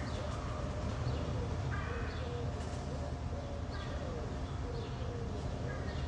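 Outdoor ambience picked up by a NEEWER CM22 wireless lavalier in mono mode with its KTV echo effect applied: a steady low rumble with birds calling, their short calls recurring about every two seconds.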